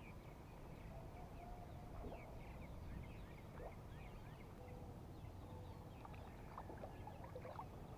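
Faint birds chirping, short scattered calls, over a low steady background hum of the lake morning.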